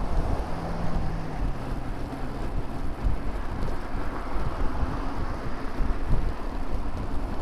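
Wind rushing over a bicycle-mounted camera's microphone while riding beside road traffic. About half a second in, a low engine hum from a passing vehicle steps down in pitch and fades after a couple of seconds.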